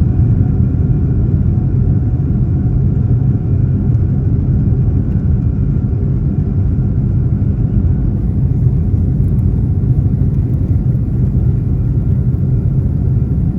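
Boeing 757-200 heard from inside the passenger cabin during takeoff: a steady, loud low rumble of the engines and airframe that keeps an even level throughout.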